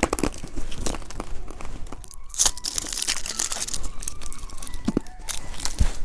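Plastic candy wrapper crinkling and being torn open, with scattered crackles and a louder burst of crinkling about two and a half seconds in.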